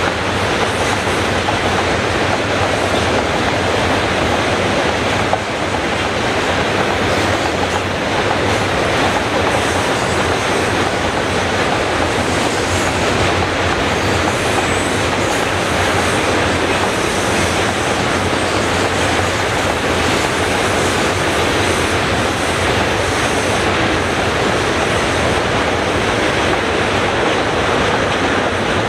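Freight train's tank wagons rolling past on the rails: a steady, dense noise of steel wheels running over the track that holds at one level throughout.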